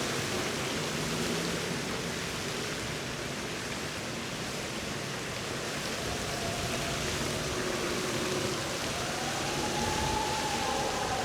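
Steady outdoor rushing noise of a walk along a lagoon-side path, with a faint tone that rises in pitch about nine seconds in.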